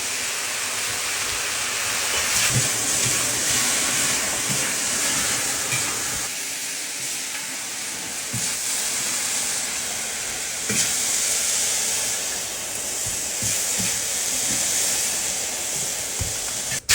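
Steady hiss and sizzle of food cooking in a wok or pot on the stove, with a few light knocks.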